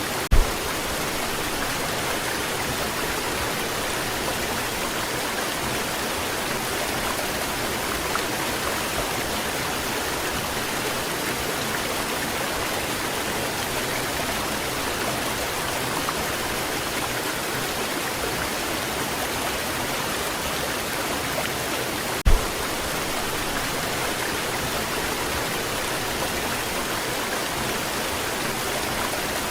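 Waterfall rushing steadily, an even wash of falling water. Two brief low thumps stand out, one right at the start and one about two-thirds of the way through.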